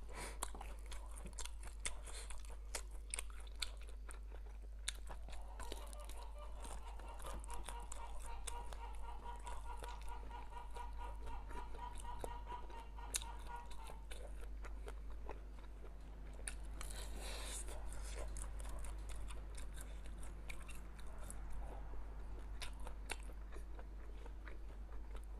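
Close-up chewing and biting of scored grilled sausages, with many small mouth clicks and soft crunches of the casing.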